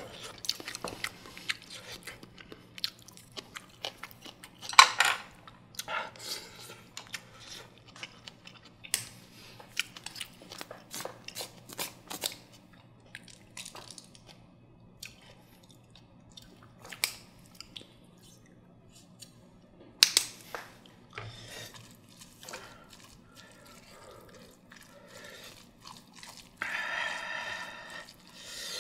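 Close-miked chewing of steamed egg custard, with many scattered clicks and a few sharper knocks from a wooden spoon working in an earthenware pot.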